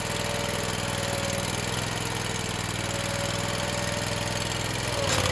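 Small gasoline engine of a stump grinder running steadily at constant speed, growing a little louder near the end.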